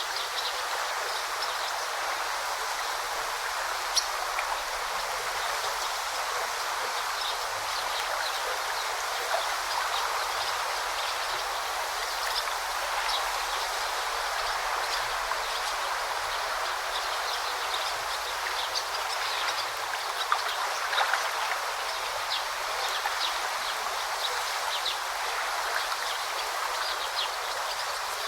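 A stream flowing and babbling steadily, with many small, sharp, high-pitched ticks and splashes over the rush of the water, and a few louder clicks.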